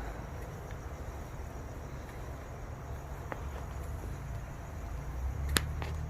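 Low rumble of a Lexus IS 200t's turbocharged four-cylinder through a Remark muffler-delete exhaust, with crickets chirping. A single sharp click about five and a half seconds in.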